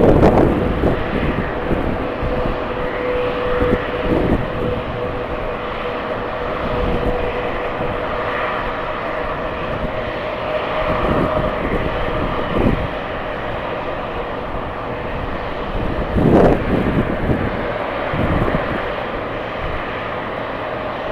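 Jet airliner engines running with a steady whine over a broad rushing noise. Strong wind buffets the microphone in several gusts, the loudest about sixteen seconds in.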